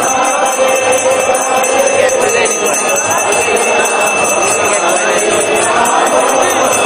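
Devotional group chanting (kirtan) with continuous jingling and ringing of bells and metal hand cymbals.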